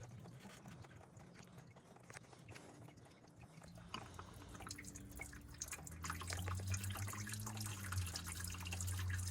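Engine coolant dripping and trickling from the opened cooling system, with small scattered drips. A low steady hum fades in about midway and grows louder toward the end.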